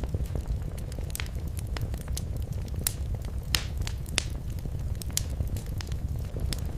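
Wood fire crackling in a fireplace: irregular sharp pops and snaps, several a second, over a steady low rumble of the flames, with one louder pop about halfway through.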